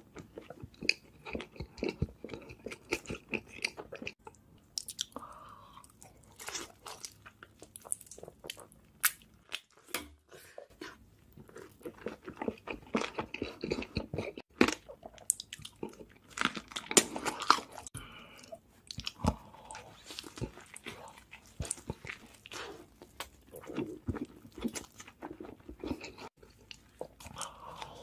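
Close-miked chewing, biting and crunching of crispy fried chicken and a burger, with many sharp, irregular crackles.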